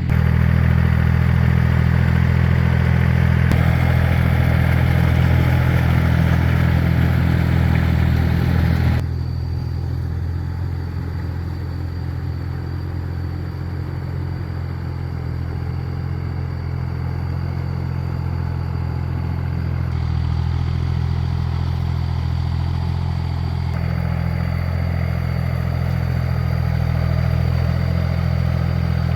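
Tractor engine running steadily with a low, even drone. Its sound changes abruptly about nine seconds in and again around twenty seconds, getting quieter and duller, then louder.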